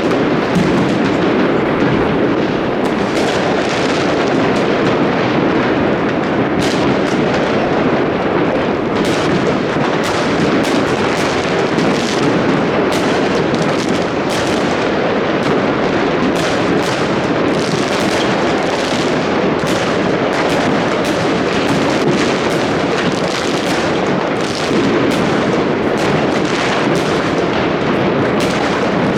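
New Year fireworks going off in a dense, continuous barrage: many overlapping bangs and crackles with no break.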